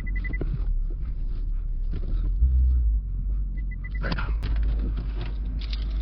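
Lexus IS500's 5.0-litre V8 idling through its factory catback exhaust: a low, steady rumble, very quiet for this car, swelling briefly about two and a half seconds in.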